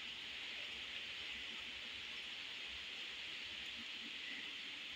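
Steady rain, a faint, even hiss with no single drops standing out.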